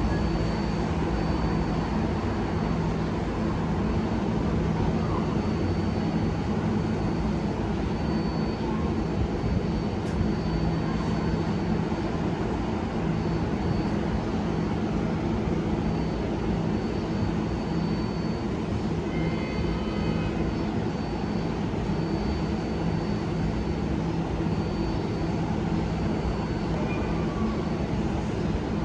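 R142/R142A subway train running between stations, a steady rumbling drone with a low motor hum. About two-thirds of the way through comes a brief higher-pitched whine.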